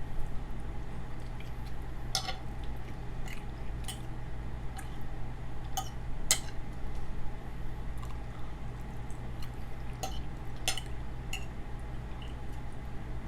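A person chewing pot roast close to the microphone, with scattered sharp clicks and mouth sounds, over a steady low hum.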